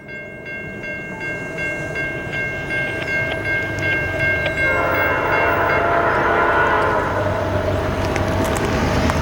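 Diesel freight locomotive sounding its multi-note horn as the train approaches, growing steadily louder. About halfway through, the horn notes drop in pitch as the locomotive passes and the rumble of the train takes over.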